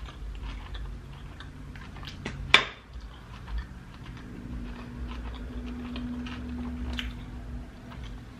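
Close-up chewing of a mouthful of sushi rolls, with wet mouth clicks and one sharp click about two and a half seconds in. A low steady hum runs through the second half.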